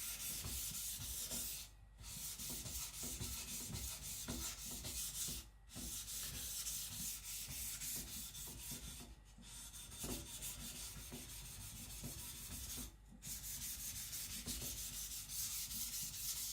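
Steel nakiri blade scraped back and forth on a coarse 400-grit whetstone in a steady run of strokes, broken by brief pauses about four times.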